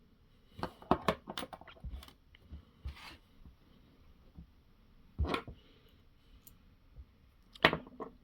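Small parts of a miniature RC crawler being handled and fitted by hand: a quick run of sharp clicks and taps in the first two seconds, then single louder knocks about five seconds in and near the end.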